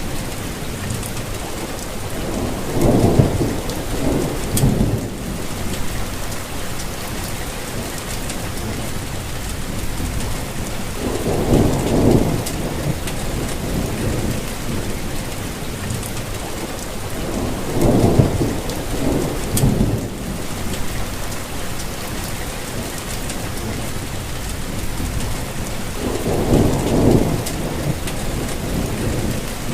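Steady rain falling, with a low rumble of thunder rolling in and fading four times, roughly every seven or eight seconds.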